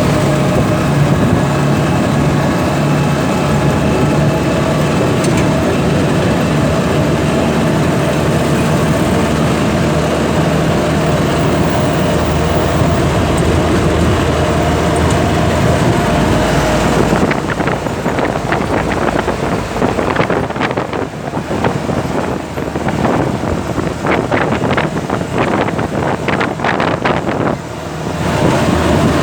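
A vehicle engine running steadily while under way, with road noise. From about halfway through, an irregular crackling, gusty noise comes over it and lasts until shortly before the end.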